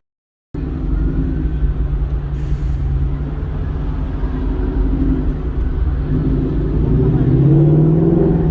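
Ford Mustang GT's V8 engine and exhaust running at low revs with a steady low note, cutting in suddenly about half a second in. The note rises a little in pitch and gets louder near the end, with a brief hiss about two seconds in.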